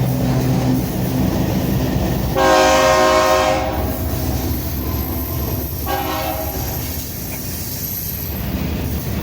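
Freight locomotive's air horn sounding a long blast about two and a half seconds in, then a shorter blast about six seconds in. Underneath is the steady rumble of the freight train rolling past, with a diesel engine hum at the start.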